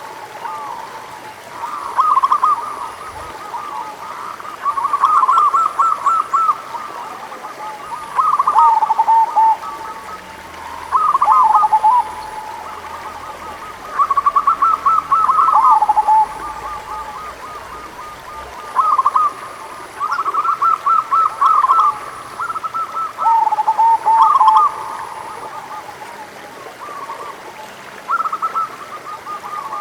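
Zebra doves (perkutut) cooing. About nine phrases of quick, stuttering coos, each ending in a lower drawn-out note, come every two to four seconds with brief pauses between.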